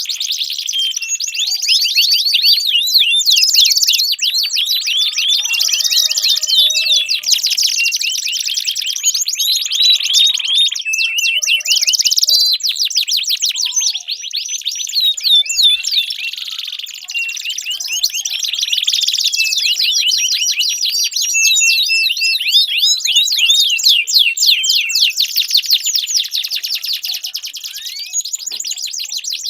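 Domestic canary singing a long, continuous song of rapid high-pitched trills and chirps, with brief pauses about twelve and seventeen seconds in.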